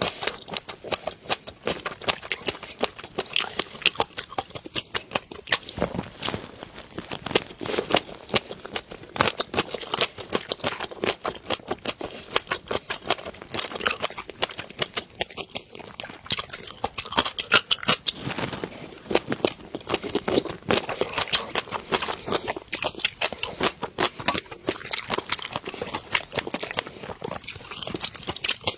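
Close-miked eating of raw shrimp and green flying fish roe: wet chewing and lip smacks with many small rapid pops and clicks throughout.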